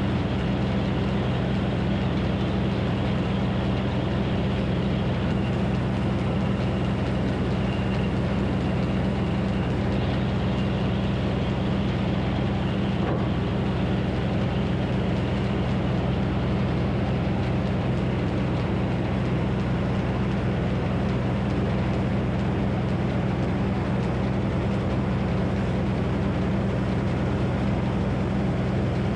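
Minneapolis Moline HEB 605 cubic-inch engine powering the Frick circular sawmill, running steadily at an even speed with no change in load.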